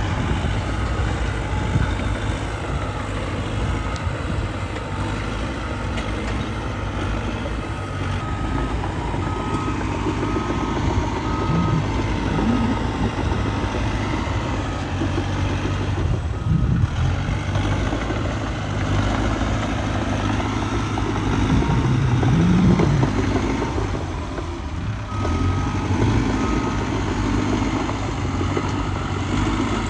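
Heavy diesel machinery running steadily, the Cat D3K2 XL bulldozer's engine working as it pushes dirt. A backup alarm beeps in several spells of evenly spaced beeps.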